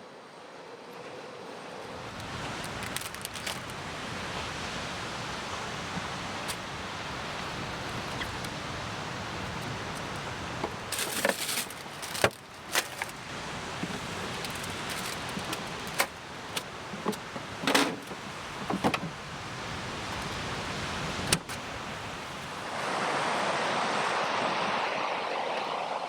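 Scattered sharp clicks and knocks of camp gear being handled, most of them in the middle, over a steady wash of background noise that swells near the end.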